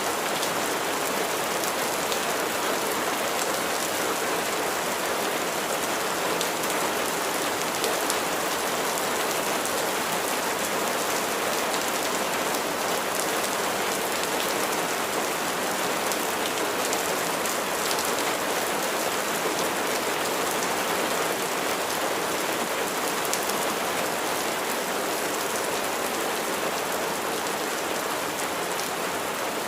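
Steady rain falling and pattering on a surface, with fine scattered drop ticks over an even hiss and no thunder.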